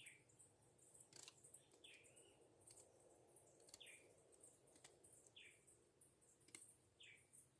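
Faint woodland ambience: a bird repeats a short falling call five times at even spacing, over high insect-like chirping and a few faint clicks.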